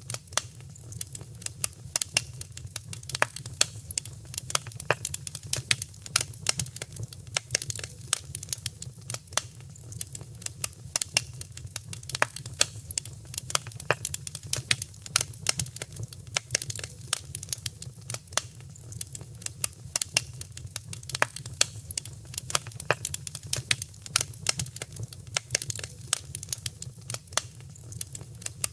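Fire crackling in a fireplace: a dense, irregular run of sharp pops and snaps over a steady low rumble.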